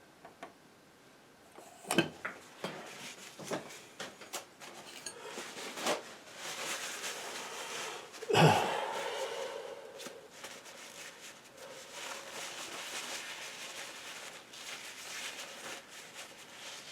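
Painting knife tapping and scraping paint on a palette and canvas: a few sharp taps about two seconds in, then a long stretch of scraping, with one louder knock about eight seconds in.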